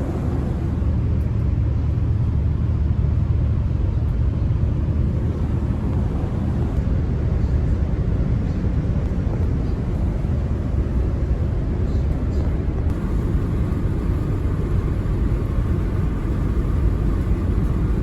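Steady low rumble of a vehicle under way, an even noise without distinct beats or tones.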